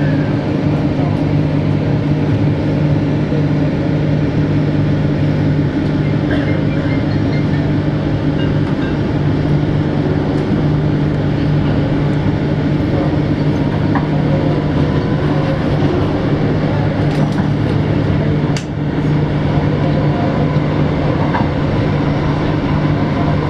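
Cabin noise of a Transperth electric suburban train running on the line: a steady low hum over rumbling wheel and track noise, with occasional sharp clicks.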